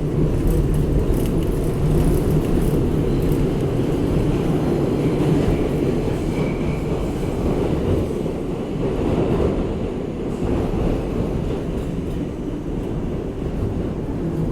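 New York City Subway R62A train car running along the track: a loud, steady low rumble of wheels and running gear.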